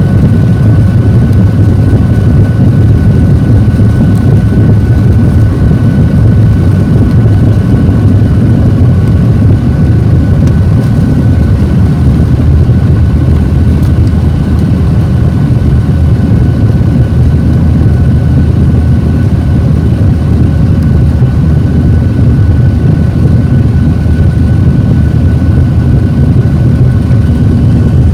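Steady cabin noise of a Boeing 737-800 with its jet engines running: a loud, even low rumble with a faint steady whine above it.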